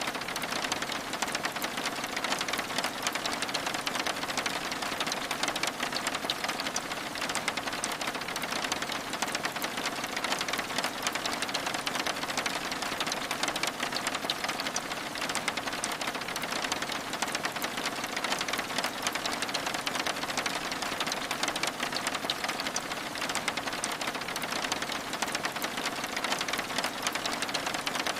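Steady rain, a dense, even patter of drops on window glass that keeps the same level throughout.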